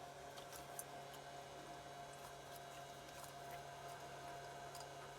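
Quiet steady hum with a few faint, light clicks of small metal parts such as a dome nut and its washer being handled.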